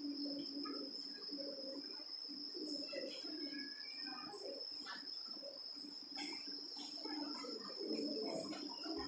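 Quiet classroom background: a steady high-pitched drone runs throughout, with a low hum beneath it and scattered faint voices and small movement sounds.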